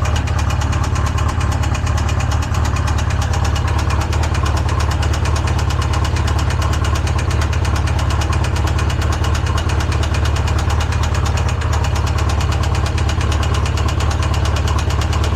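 Polaris RZR engine idling steadily with a fast, even beat. It is the engine that seized, with a rod the owner believes welded to the crank, now freed and run with its crankcase filled with Lucas oil.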